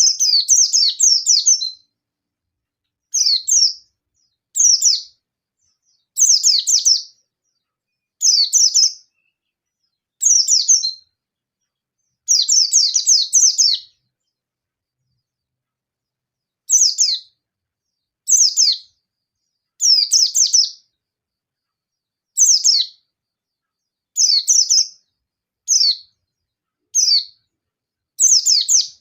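A white-eye (pleci) singing in short, rapid, high-pitched bursts of chirps with brief pauses between them, and one longer pause about halfway. This is the agitated, fast "nembak" song of a wild-type bird, used to call out and provoke rival white-eyes.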